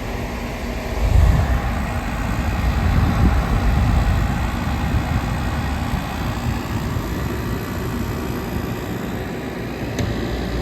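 2010 Everstar 10,000 BTU portable air conditioner running steadily, its compressor and fan making a continuous hum and rush of air, with a low rumble that swells between about one and five seconds in.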